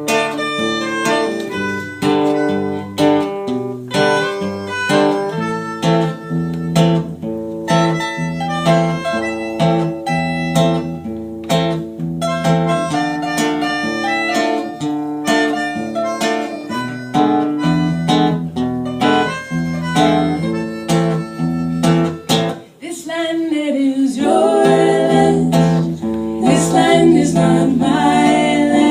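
Acoustic guitar strumming chords with a harmonica playing a melody over it, the instrumental opening of a song; the melody line grows stronger near the end.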